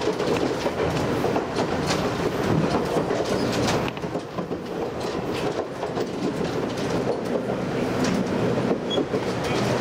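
Jōmō Electric Railway electric train running at speed, heard from inside the carriage: a steady rumble of wheels on rail with repeated rail-joint clicks. The sound eases off a little for a couple of seconds about four seconds in.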